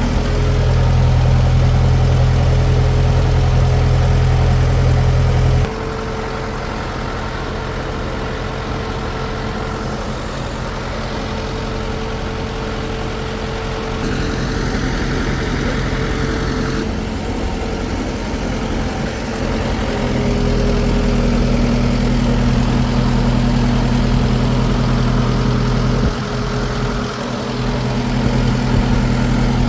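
Engine running steadily with a deep hum, its level and pitch shifting abruptly several times.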